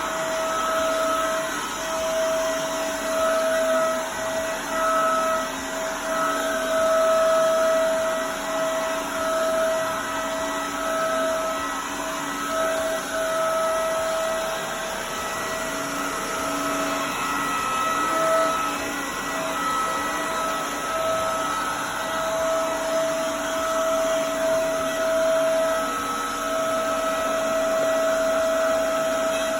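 Vacuum cleaner running steadily with a high-pitched whine over its motor noise, the level wavering up and down.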